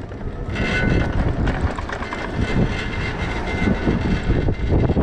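Wind and road noise of a moving electric bike, an uneven low rumble that gets louder about half a second in, with a thin steady high whine over it for a few seconds.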